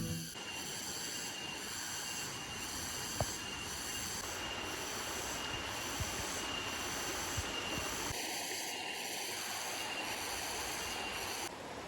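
Outdoor ambience: a steady hiss under a high, shrill pulsing sound that repeats about every two-thirds of a second, with a faint click about three seconds in.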